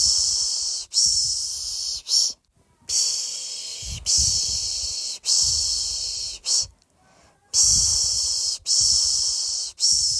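A person's rhythmic "shh" shushing ("piş piş") to soothe a baby to sleep. Each group is three long shushes of about a second each, then a short one and a brief pause, and the groups repeat.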